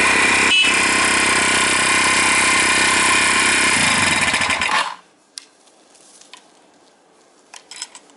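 Honda FTR223's single-cylinder four-stroke engine, breathing through an aftermarket Moriwaki ZERO muffler and fed by a Yoshimura TMR carburettor, running steadily. It is shut off about five seconds in and stops abruptly, followed by a few faint clicks.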